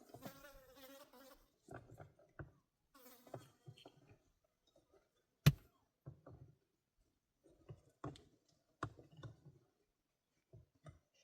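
A fly buzzing close by in short spells, mostly in the first second or so, with scattered knocks and thuds; the loudest is a single sharp knock about halfway through.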